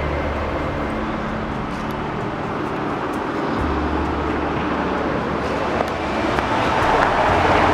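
Steady rushing of traffic on the Hume Freeway, tyres and engines of passing vehicles, with low engine drones coming and going. It swells louder over the last couple of seconds as vehicles pass.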